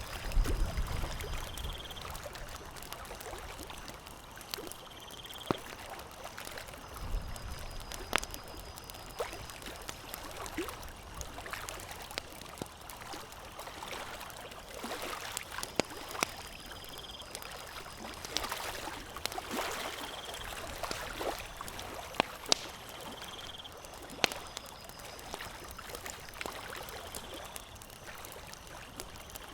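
Campfire crackling: irregular sharp pops and snaps over a steady hiss, with a faint short high chirp recurring every few seconds.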